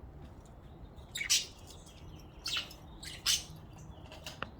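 Budgies giving three short, harsh chirps about a second apart, with a sharp click near the end.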